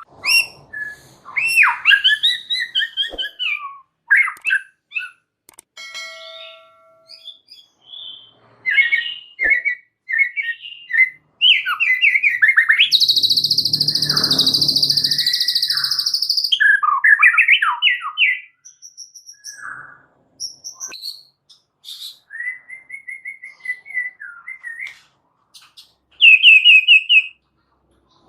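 White-rumped shama singing a varied, busy song: short whistled phrases that slide up and down, broken by gaps, with a harsh buzzing chatter of about three seconds in the middle.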